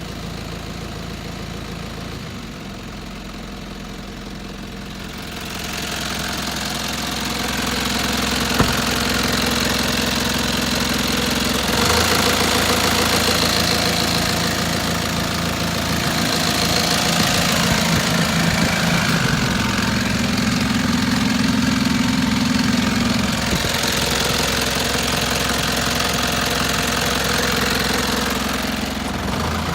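Mitsubishi Canter truck engine running steadily, growing louder after the first few seconds and then shifting up and down in level and pitch a few times. A single sharp click about eight seconds in.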